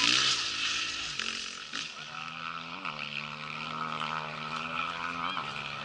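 Rally motorcycle engine heard at a distance, holding a steady note with two brief blips in pitch, about three and five seconds in.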